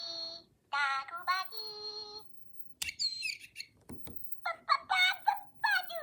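Electronic toy voices chattering: short, babbled, pitched phrases from a Furby Furbling and a toy bird, with a high chirp about three seconds in.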